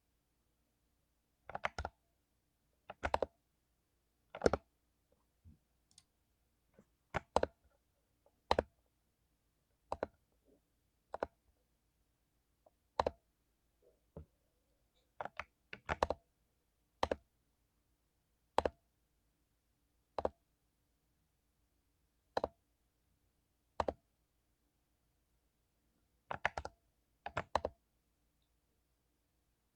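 Mechanical keyboard with lubed Cherry MX Silver linear switches, keys pressed one at a time at an unhurried, irregular pace, about one sharp keystroke every second or two, some heard as quick double clicks.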